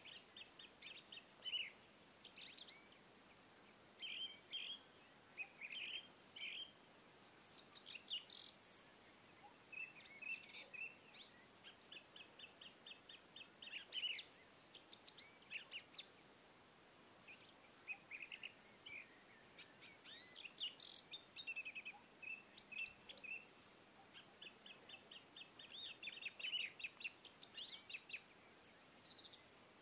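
Birds chirping and singing, faintly: many short overlapping calls and several fast trills of rapidly repeated notes, over a light background hiss.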